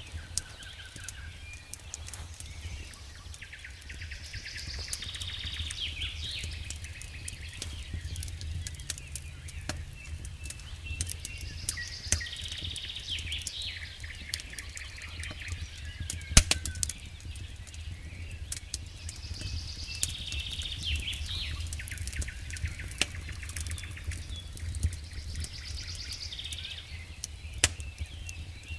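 Campfire crackling with scattered sharp pops, the loudest a little past the middle, over a steady low rumble. A songbird sings a recurring trilled phrase every several seconds.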